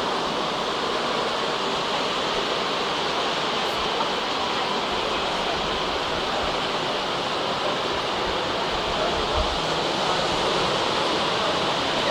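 Steady rain hiss: an even rushing noise with no distinct events.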